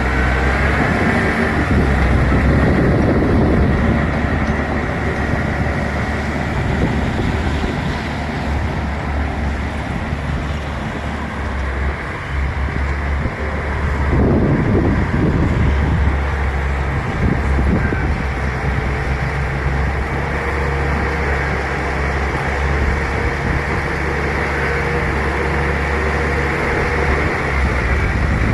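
Bulldozer's diesel engine running steadily at work, with louder, noisier spells about two seconds in and again around the middle.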